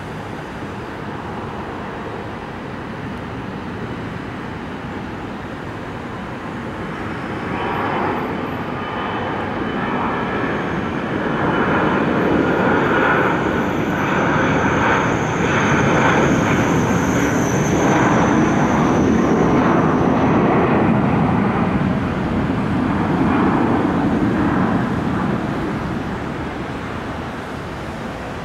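Boeing 737-300's CFM56-3 turbofan engines at takeoff thrust, a steady jet rumble that swells about a quarter of the way in as the plane passes. A high whine comes in at the loudest part, and the sound eases off near the end.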